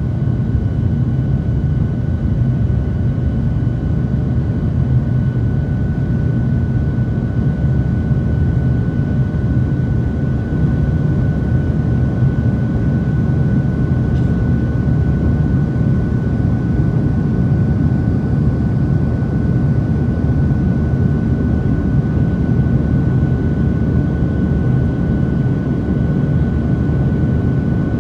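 Boeing 737-700 with its CFM56 jet engines running steadily: a dense low rumble with a thin, constant high whine over it, unchanging in pitch or level.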